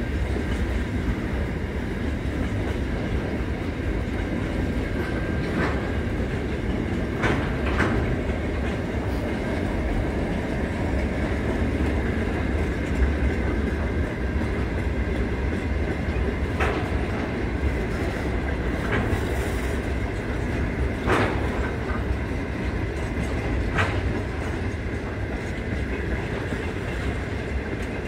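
Freight train of container and tank wagons rolling past, a steady low rumble with irregular sharp clacks of wheels over rail joints.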